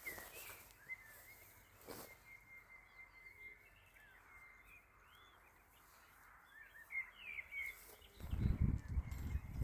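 Small birds chirping sparsely. From about 8 seconds in there is a loud, low thudding and rumbling noise.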